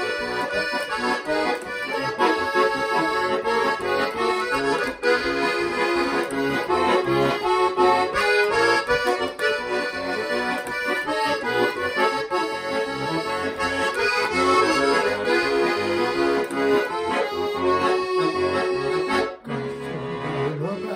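Bayan (Russian button accordion) playing a lively instrumental interlude of a Gypsy-style folk song, with chords and a running melody and no singing. The playing dips briefly near the end before the next phrase.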